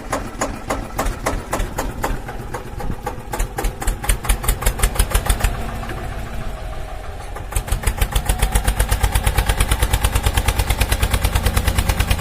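Tractor engine running with a regular chugging beat that quickens about seven and a half seconds in.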